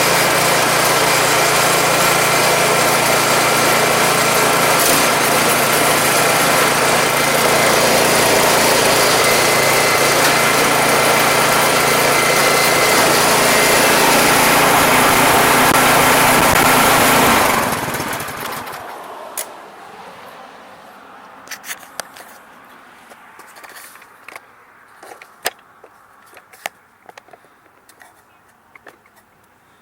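Troy-Bilt 2410 snowblower's single-cylinder four-stroke engine running steadily, back in running order after a no-start fixed by a carburetor cleaning. It is shut off about 17 seconds in and winds down within a second. Scattered light clicks and knocks follow.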